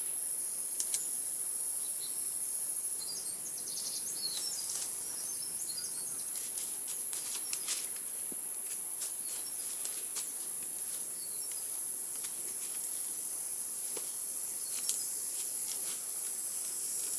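Steady high-pitched drone of insects, with scattered bird chirps in the first few seconds and a few faint clicks.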